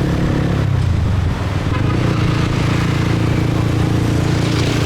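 Motorbike engine running while riding, its note shifting and dipping briefly about a second in, then holding steady, with road noise.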